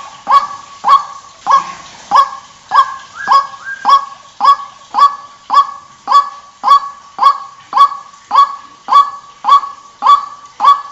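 White-breasted waterhen calling: a steady, regular series of loud, sharp notes, about two a second.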